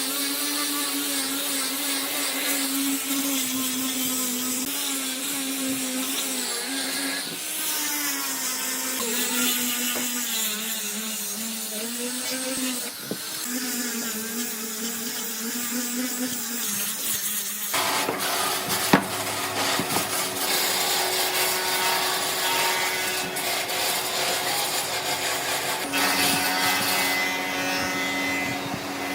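An electric power tool working wood: a motor's steady hum under a rough, rasping noise, the pitch sagging now and then as the tool is pressed into the wood. Well past halfway the sound changes abruptly to a different, rougher steady tool noise with a higher hum.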